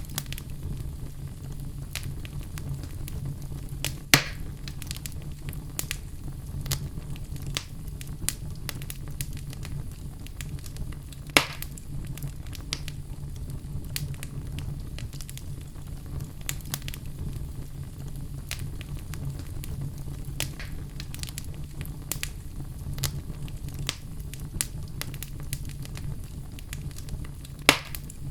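Wood fire in a fireplace crackling, a steady low rumble of flame under many small irregular pops, with a few sharper, louder pops at intervals.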